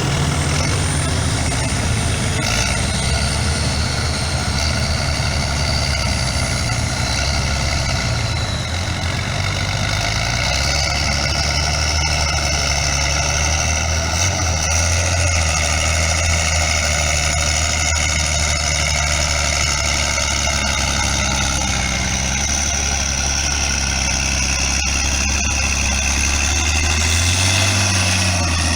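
Heavy competition truck's engine running steadily under power, with a high whine riding above the deep engine note.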